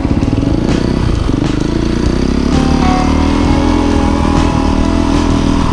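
Off-road motorcycle engine running under load, its revs rising about two seconds in.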